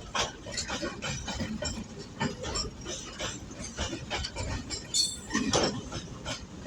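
Goods train wagons rolling past, their wheels clattering and clanking in a quick, irregular run of metallic knocks, with a brief high metallic squeal about five seconds in.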